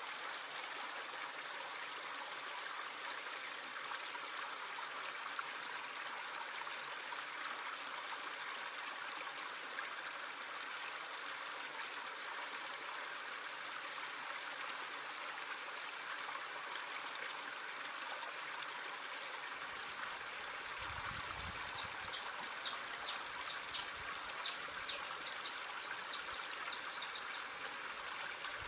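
Steady rush of a running stream. About twenty seconds in, a bird starts a fast, continuing series of short, high chirps over the water.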